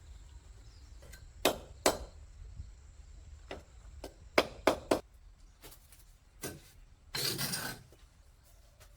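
Sharp knocks, like tools or hard objects striking: two about a second and a half in, a quick run of three around four and a half seconds in, and a fainter one later. A short scraping or rustling noise follows near the end.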